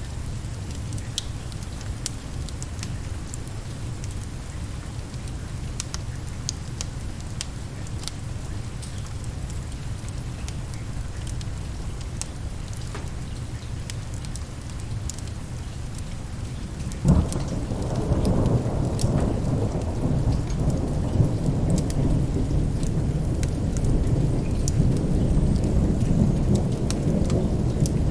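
Steady rain with scattered small ticks and pops. About two-thirds of the way through, a sudden thunderclap breaks into a long rolling rumble of thunder, louder than the rain, that goes on over the rain.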